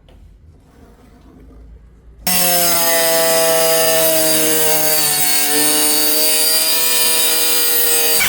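A power tool cutting, starting abruptly about two seconds in and then running loud and steady, with a high whine over a strong hiss.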